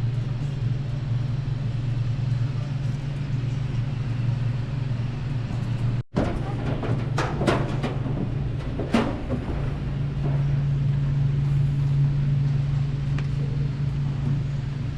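A steady low hum with a brief break about six seconds in, followed by a few short knocks or clicks.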